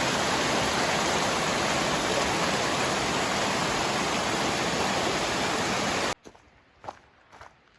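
Rushing water of a mountain stream, a steady hiss that cuts off abruptly about six seconds in. Two soft footsteps follow.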